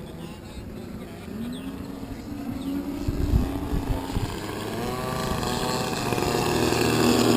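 Engines of giant-scale RC aerobatic airplanes running in flight, their pitch rising and the sound growing steadily louder as they come closer. A few low wind thumps on the microphone about three seconds in.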